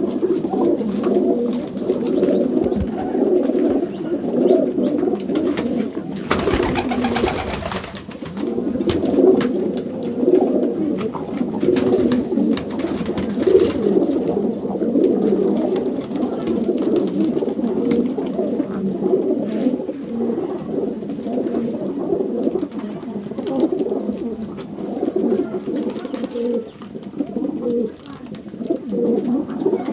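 Many racing pigeons cooing at once, overlapping coos without a break, with a brief burst of noise about six seconds in.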